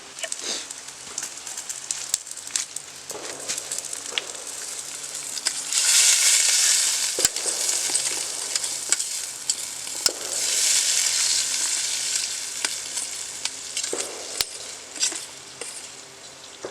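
Onions and bell peppers frying in a pan, sizzling as they are stirred, with sharp knocks of the utensil against the pan. The sizzle swells loudly twice, about six seconds in and again around ten seconds.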